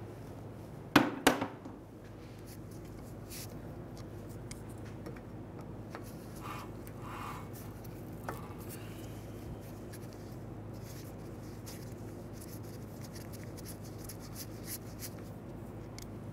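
Two sharp metal knocks about a second in, then faint scraping and small clicks of a screwdriver backing out the Phillips screws that hold a brake rotor to its wheel hub, over a steady low hum.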